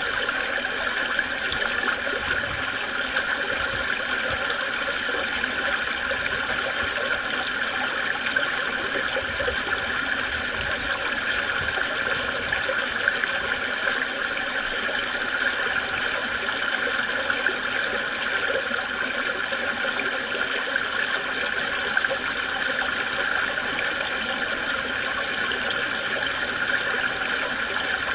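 A creek babbling: water running steadily, with a constant rushing splash.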